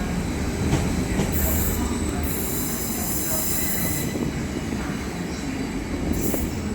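Train moving through a station platform: a steady low rumble, with a brief high-pitched hiss about a second in, then high-pitched wheel squeal from about two to four seconds in.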